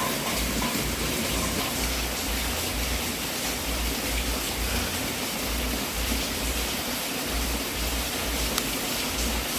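Wood fire burning in a fireplace: a steady rushing hiss with a faint crackle or two.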